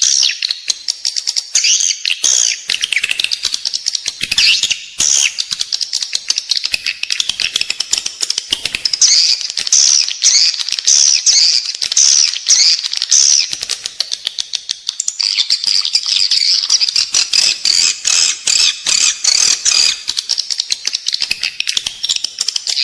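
Edible-nest swiftlets twittering: dense, rapid high chirps, with a run of repeated rising chirps about two a second midway. This is the indoor lure call played in swiftlet houses to draw the birds in to roost and nest.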